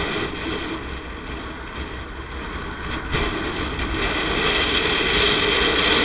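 Motorcycle riding along a road: engine running under wind rush on the rider's microphone, easing off for a couple of seconds and picking up again about three seconds in.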